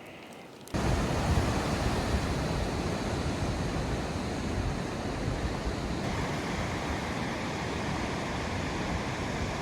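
Steady rushing of ocean surf with wind, cutting in abruptly just under a second in.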